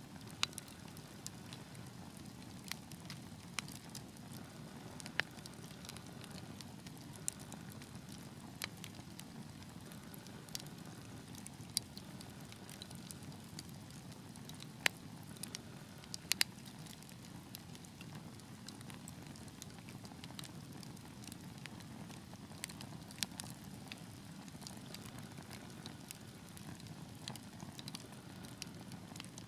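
Wood fire burning in a fireplace: a steady low rush of flame with irregular sharp crackles and pops, a few louder snaps among them.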